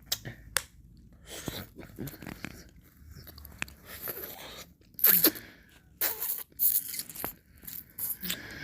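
Close-up mouth sounds of eating ice cream: irregular wet smacks, licks and clicks of lips and tongue, loudest about five seconds in and again a second later.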